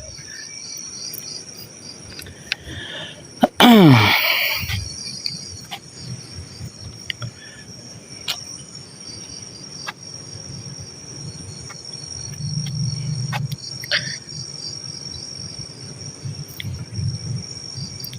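Night insects, crickets among them, chirring steadily with high-pitched pulsing chirps. About three and a half seconds in, a brief loud sound falls sharply in pitch, with a few faint clicks here and there.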